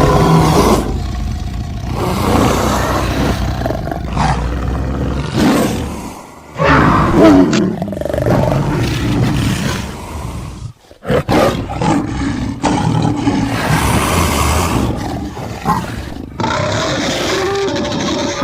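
A string of designed big-cat roar sound effects, layered from tiger, leopard and monster roar recordings, with short breaks about six and eleven seconds in.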